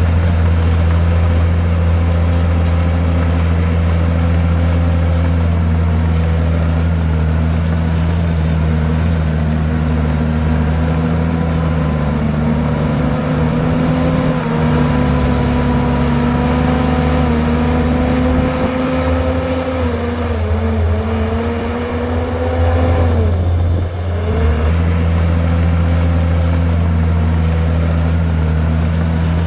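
Komatsu bulldozer's diesel engine running hard with a steady drone. About 20 seconds in the engine note sags, and near 24 seconds it picks back up.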